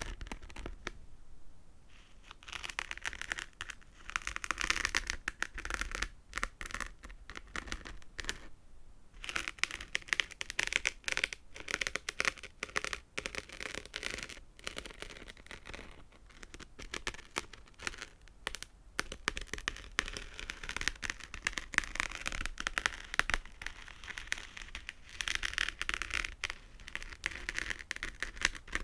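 Fingernails tapping and scratching rapidly, a dense crackle of fine clicks that swells and eases in waves several seconds long, with short lulls.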